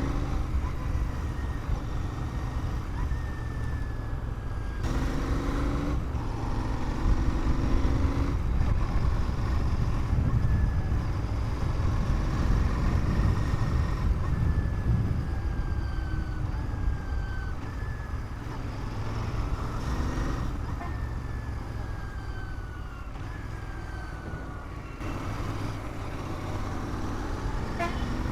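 Motorcycle riding in city traffic: a steady rumble of engine and wind on the microphone. Pitched sounds come in about five seconds in and again near the end, and a few thin falling whistle-like tones sound through the middle.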